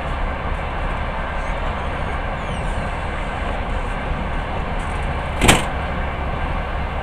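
Steady rumble and rushing noise of a long-distance passenger train running at speed, heard from inside the carriage, with one brief, loud burst of noise about five and a half seconds in.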